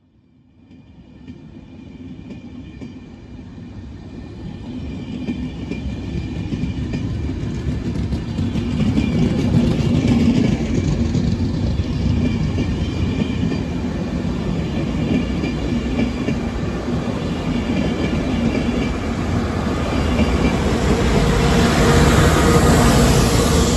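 Enterprise passenger train's coaches rolling past on the rails with wheel clatter, building from faint to loud over the first several seconds. Near the end, the Class 201 diesel locomotive pushing at the rear passes under power and the sound is loudest. The locomotive's engine is an EMD two-stroke V12.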